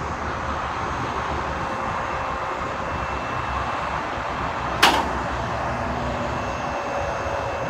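Wind buffeting the microphone as a steady rumbling rush, with one sharp knock about five seconds in.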